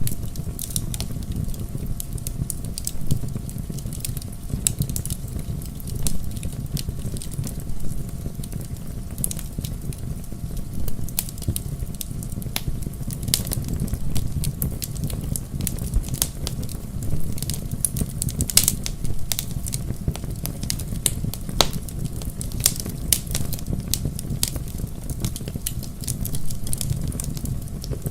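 Bonfire burning: wood crackling and popping in frequent, irregular sharp snaps over a steady low rumble.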